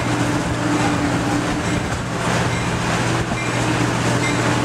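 Passenger train running, heard from aboard a coach: a steady rolling rumble with a constant low hum under it.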